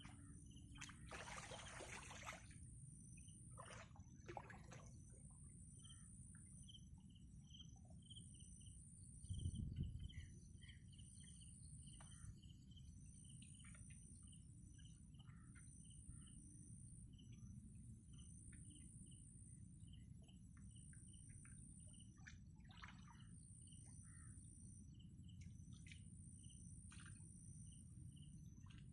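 Faint outdoor ambience: a high insect trill pulsing about once a second with a string of small chirps, over a steady low rumble. A brief louder rumble comes about ten seconds in.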